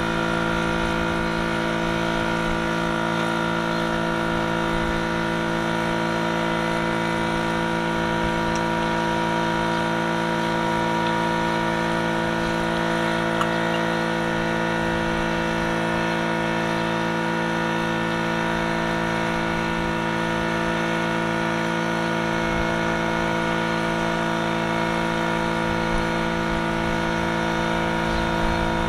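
A machine running at a constant pitch, a steady hum that does not change, with a few faint clicks.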